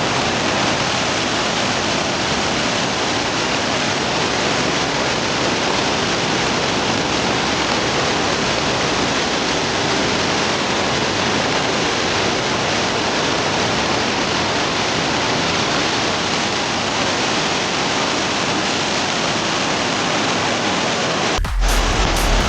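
Steady rushing of a river in a violent, fast flow of white water. About a second before the end, electronic music with heavy bass cuts in.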